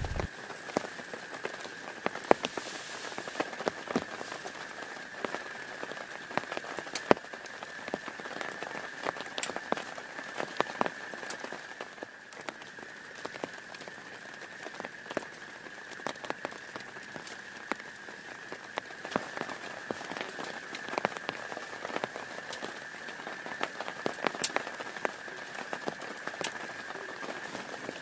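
Steady rain falling, with heavy drops hitting close by as scattered sharp ticks. A thin, steady high tone runs underneath.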